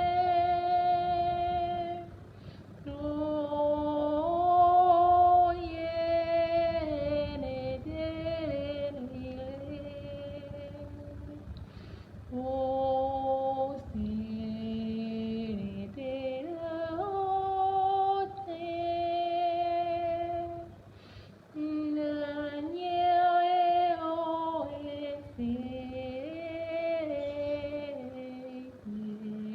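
A woman's voice singing long wordless held notes, stepping and sliding from one pitch to the next, with brief pauses between phrases: vocal toning as a healing sound meditation.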